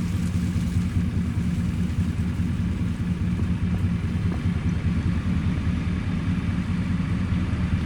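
Engine idling steadily with a low, even hum that does not change in pitch.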